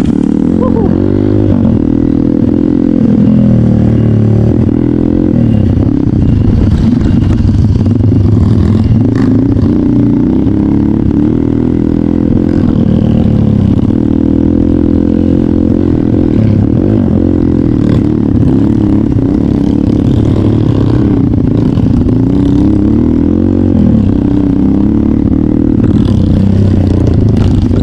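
Trail motorcycle engine running at low to middling revs, its note rising and falling as the throttle is worked.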